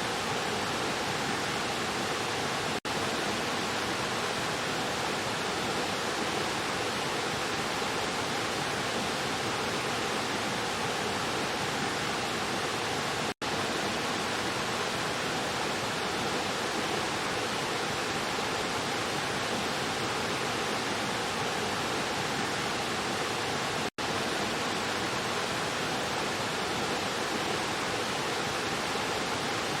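Stream water rushing and splashing over rocks, a steady dense rush broken three times by a split-second dropout.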